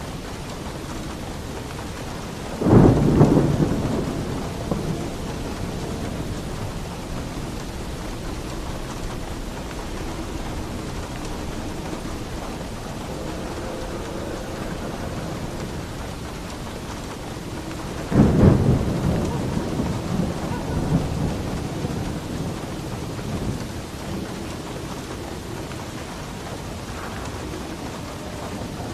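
Steady heavy rain on a roof, with two thunderclaps, about three seconds in and again about eighteen seconds in, each rumbling away over a few seconds.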